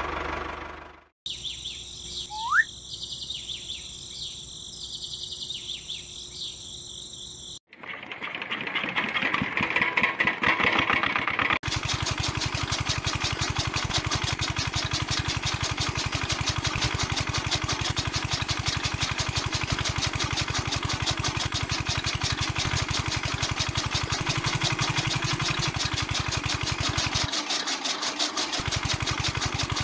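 Birds chirp at first. About eight seconds in, the small motor of a miniature chaff cutter's toy engine starts up, and about four seconds later it settles into a fast, steady engine-like chugging as it drives the cutter by its belt.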